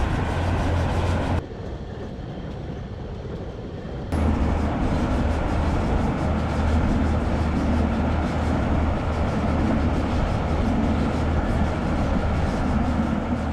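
Moving passenger train running along the track, a steady rumble and rush heard from an open carriage window. The sound drops about a second and a half in and comes back louder about four seconds in.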